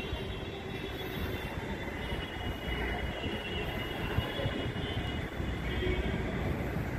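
Steady low rumble of a train running on nearby tracks, with faint high-pitched ringing above it.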